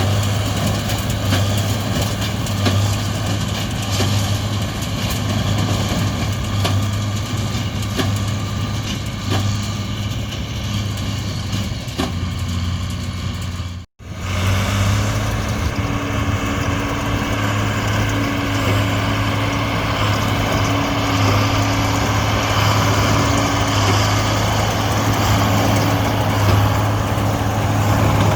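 Heavy diesel engine running steadily with a deep, even hum. About halfway through the sound cuts out for an instant, then a steady engine continues with a higher hum added.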